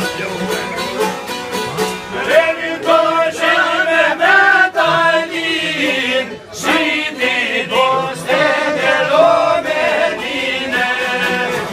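Albanian folk song: a man singing in a wavering, ornamented line over a plucked string-instrument accompaniment. The voice comes in about two seconds in and breaks off briefly around six seconds.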